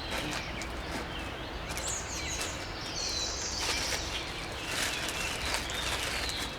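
Birds chirping a few short calls over steady outdoor background noise, with scattered faint clicks.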